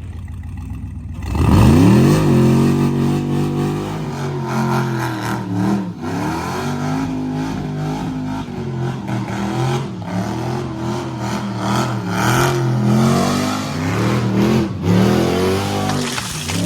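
A vehicle engine revving hard in a burnout, rising sharply about a second in and then surging up and down repeatedly.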